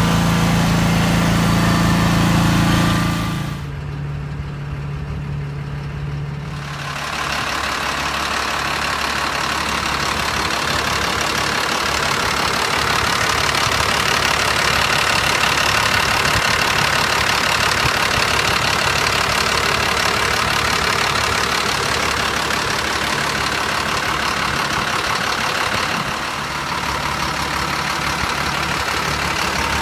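Vacuum excavation truck's engine and equipment running. A steady engine note drops away about three seconds in, and from about seven seconds in a broad, steady hiss with a faint whine takes over.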